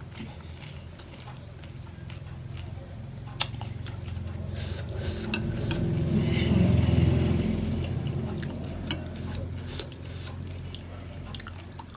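Close-miked eating of panipuri: sharp clinks of utensils and dishes and wet mouth sounds, with one clear clink a few seconds in and a low swell of sound in the middle.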